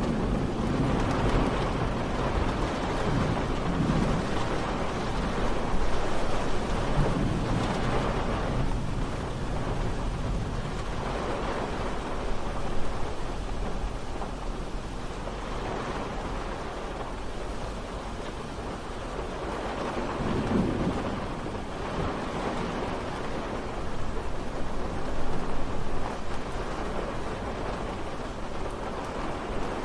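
Steady rain falling, with low rumbles of distant thunder that swell and fade several times, the clearest about two-thirds of the way through.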